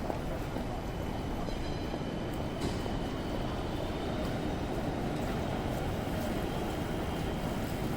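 Steady rumble of city street traffic on wet streets in the rain, with a faint high whine that runs from about one and a half to four seconds in.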